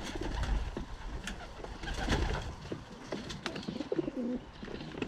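Racing pigeons cooing, with a low wavering coo about two thirds of the way through, over scattered light clicks and scuffles.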